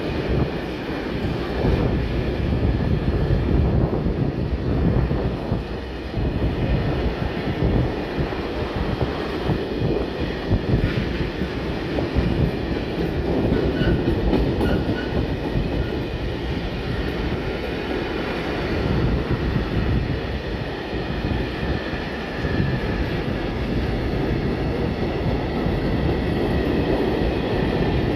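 Freight train of grain wagons rolling past: a steady rumble of steel wheels on the rails, with faint high wheel squeal.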